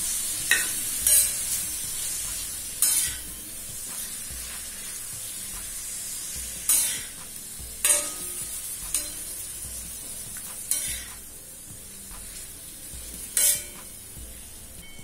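Marinated chicken pieces sizzling in oil on an iron tawa, with a steel spatula scraping across the pan several times as the pieces are turned.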